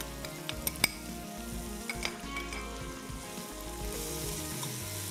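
Onion-tomato masala and freshly added spices sizzling in hot oil as they are stirred and fried. A few sharp clicks of the spoon on the pot come in the first two seconds.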